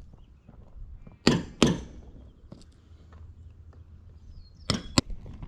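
Sharp knocks in two pairs: two loud ones about a second in, and two more near the end, over low background rumble.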